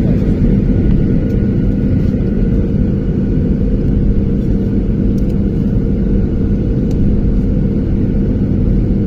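Steady cabin noise inside a Boeing 737 airliner: a constant low rumble with a steady hum, unchanging throughout.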